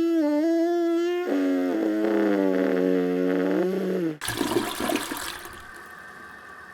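Long held musical-sounding notes for about four seconds, then a sudden cut to a toilet flushing: a rush of water that dies down over a second or two.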